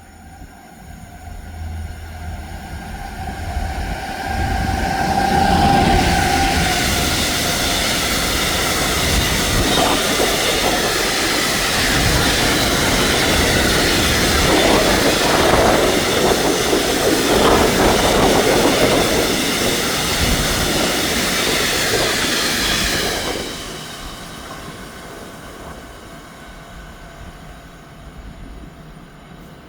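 A train approaching and passing the station, with a steady tone as it draws near, then a loud rush of wheels on rails for about eighteen seconds that drops off suddenly as the last car clears.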